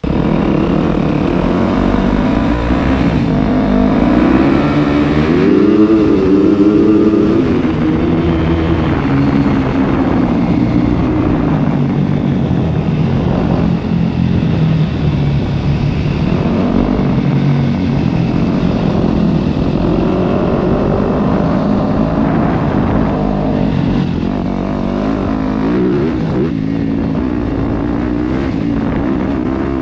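Yamaha YZ250F dirt bike's four-stroke single-cylinder engine under way, revving up and dropping back again and again as the rider accelerates and shifts.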